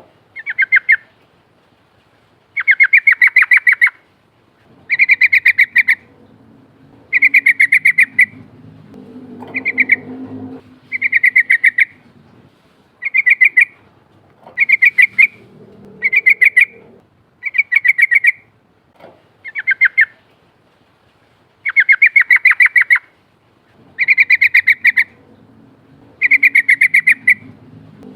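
Yellow-vented bulbul (trucukan) singing its rolling song: short, loud, rapidly pulsed phrases repeated about every two seconds.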